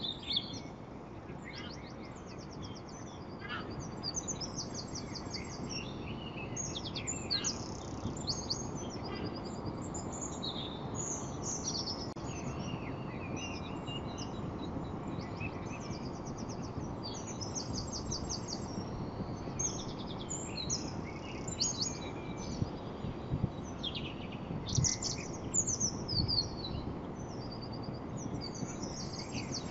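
Many small birds chirping and trilling in quick, overlapping calls over a steady low background hiss.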